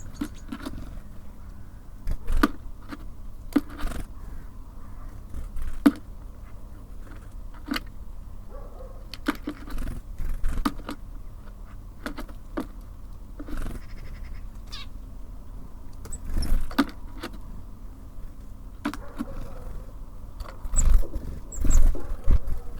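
Small birds at a feeder: irregular sharp taps and knocks from pecking and landing, with a few louder thumps in the second half and brief high chirps near the end, over a steady low rumble.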